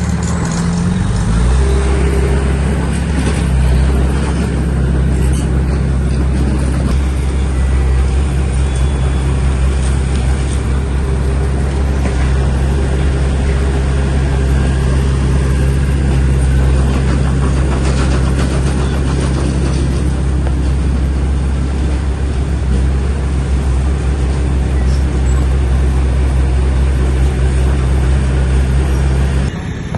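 Heavy bulldozer diesel engine running hard and steady. Its pitch drops about a second in, then holds at a constant speed, and the sound cuts off sharply just before the end.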